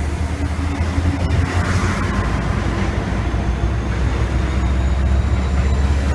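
Passenger train pulling into the platform and rolling past close by: a steady low hum over a rumbling noise, growing gradually louder.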